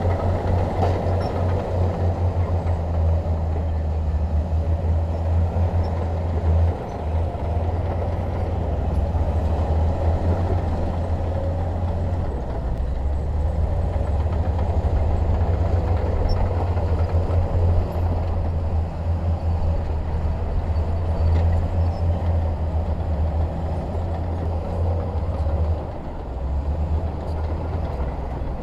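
Heavy diesel engine of earthmoving equipment running steadily, a deep low drone that swells and eases slightly.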